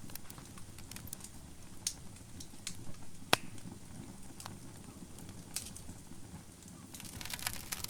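Wood fire burning in a fireplace: a low rumble of flame with scattered crackles and pops. One sharp, loud pop comes a little under halfway through, and the crackling grows denser near the end.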